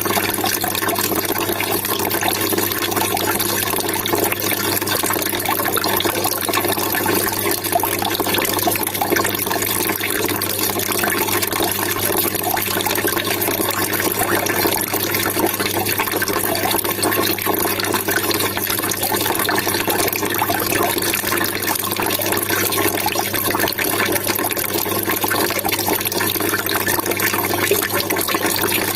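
Water trickling and splashing steadily without a break, with a steady low hum underneath.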